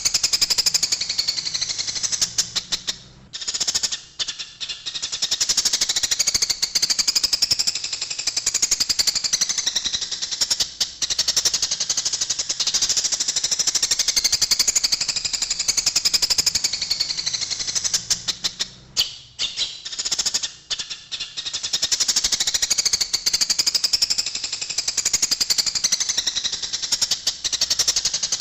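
A dense, rapid chattering of Eurasian tree sparrows' fighting calls: fast, harsh chirps packed close together. The chatter thins out briefly twice, about 16 seconds apart, as the recording loops.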